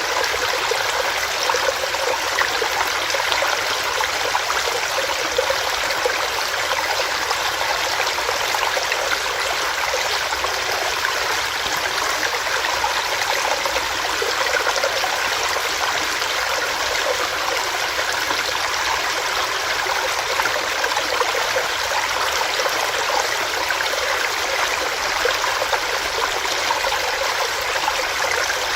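Small rocky stream, water running and splashing over rocks in a steady, unbroken rush.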